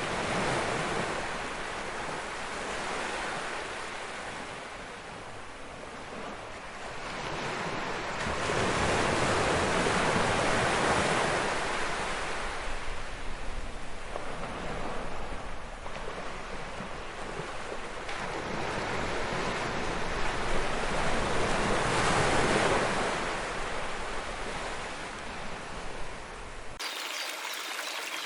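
Ocean surf: waves wash in and draw back in slow swells every few seconds. About a second and a half before the end it cuts abruptly to a thinner, brighter running-water sound like a stream.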